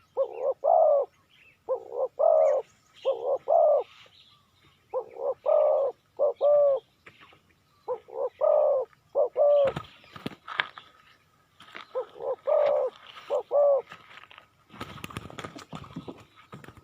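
Spotted dove cooing: about five phrases, each of three or four low coos, repeated every two to three seconds. From about ten seconds in, and again near the end, a rapid clatter of knocks and rustles.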